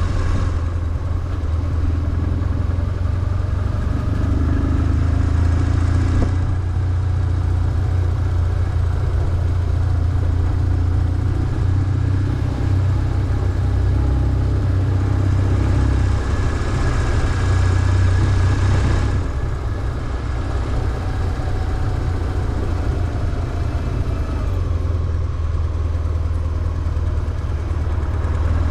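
BMW R1150GS flat-twin boxer engine running as the motorcycle is ridden, its note rising and falling slowly with the throttle.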